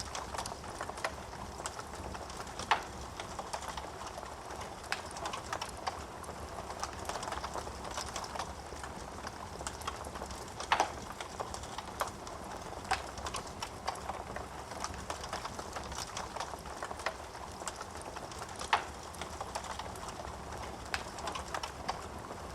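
Wood fire burning in a fireplace, crackling steadily with many small snaps and three louder pops.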